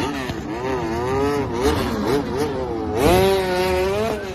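Motorcycle engines revving, their pitch rising and falling with the throttle, with a sharper, louder rev about three seconds in.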